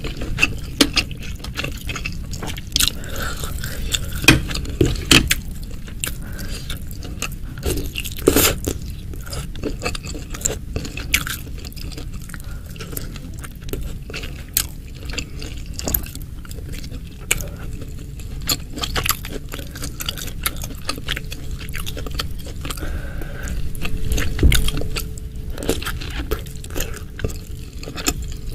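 Close-miked chewing and biting of meatballs and beef ribs: a steady run of wet clicks and crunches, with a louder thud about 24 seconds in.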